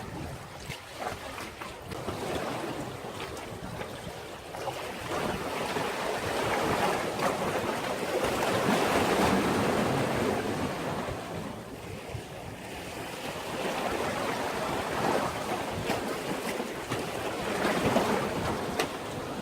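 Sea waves washing in against a breakwater, swelling to a loud surge about halfway through and again near the end, then easing back.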